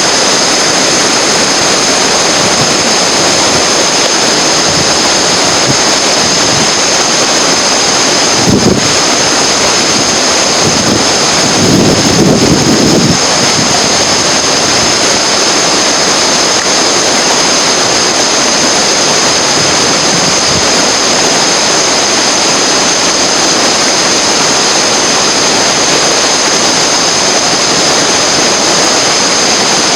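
Whitewater rushing through a river rapid, a steady loud noise, with two brief louder bumps at about nine and twelve seconds in.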